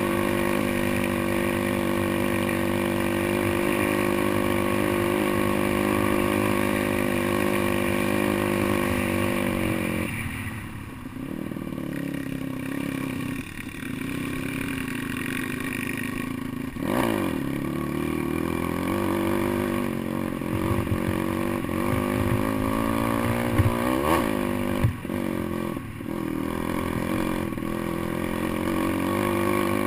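Pit bike's small single-cylinder engine running at a steady speed under throttle, dropping off about ten seconds in, then revving up and down again and again. A few sharp knocks come through in the second half.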